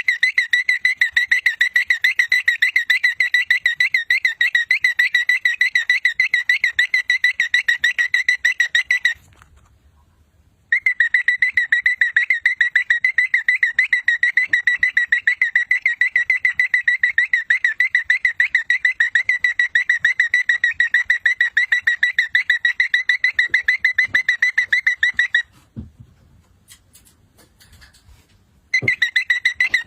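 A high, warbling whistle-like tone that trills rapidly without rising or falling, held for long stretches. It breaks off briefly about nine seconds in and again for a few seconds near the end.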